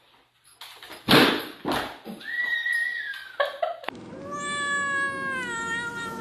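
An animal's long, drawn-out call, sliding slowly down in pitch, preceded by a couple of brief noisy bursts and a shorter high steady tone.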